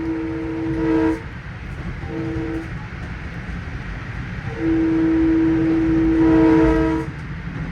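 Long Island Rail Road M3 electric train's chord horn sounding the grade-crossing signal: a long blast ending about a second in, a short blast, then a final long blast, over the steady rumble of the moving train.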